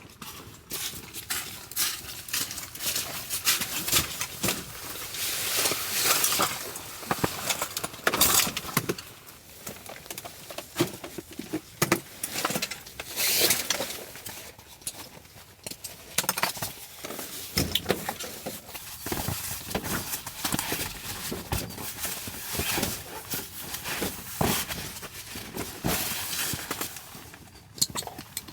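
Irregular crunching, clicking and rustling from handling or moving things close to the microphone, with louder clusters every few seconds.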